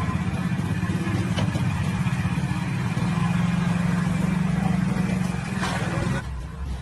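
An engine running steadily with a low, pulsing drone, which drops away about six seconds in.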